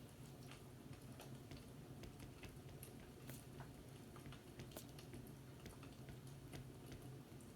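Faint fireplace crackling: irregular small pops and snaps, some sharper than others, over a low steady hum.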